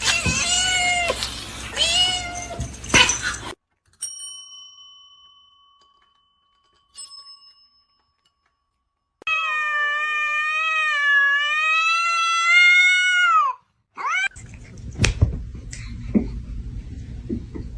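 Cats meowing: two short meows, a ringing ding that fades away, then one long drawn-out meow lasting about four seconds, followed by shuffling noise with clicks and more meows.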